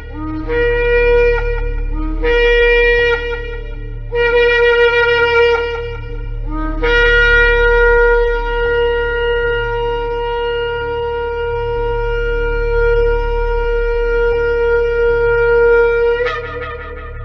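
Shofar blown in a series of short blasts, each scooping up from a lower note to the main pitch, followed by one long held blast that breaks upward just before it ends. A steady low hum lies underneath.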